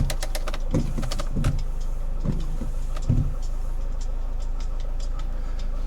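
Faulty CD mechanism of a Peugeot 307's stock radio whirring and knocking over a steady low hum, with a stuck disc spinning and vibrating inside. There are a few dull thumps in the first half, then faint irregular ticking.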